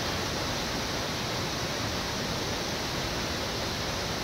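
Steady rush of flowing water, an even hiss-like roar that holds at one level throughout.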